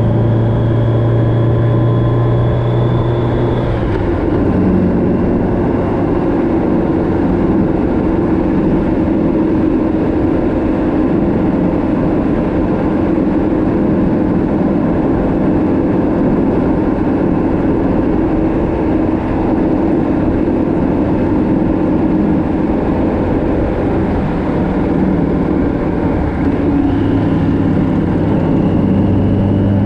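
Motorcycle engine running at road speed, with heavy wind noise. The engine note drops about four seconds in, as the rider eases off or shifts, and climbs again near the end.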